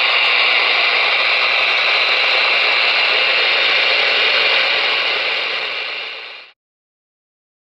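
Galaxy DX-98VHP ten-meter radio's speaker hissing with steady receiver static, the band noise reading about S9 on the meter. The hiss fades and cuts off to silence about six and a half seconds in.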